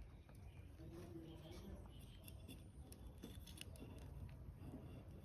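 Near silence: faint low background rumble with a few soft clicks.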